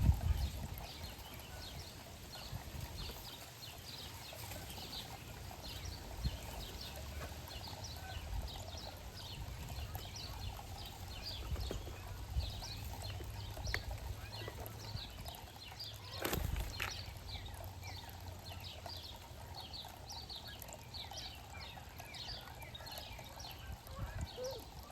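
Outdoor backyard ambience: many small birds chirping continuously in the background over a low rumble, with a few short knocks, the clearest about two-thirds of the way through.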